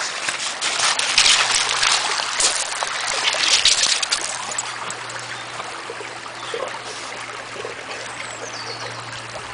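Stream water running and trickling steadily, louder and more uneven over the first four seconds, then settling.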